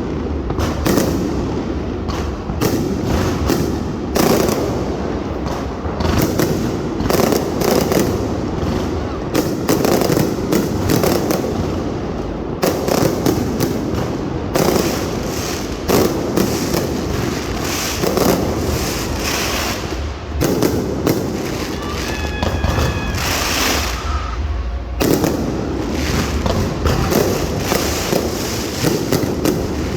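Aerial fireworks display: a continuous barrage of booming bursts and crackling reports, many per second with no pause.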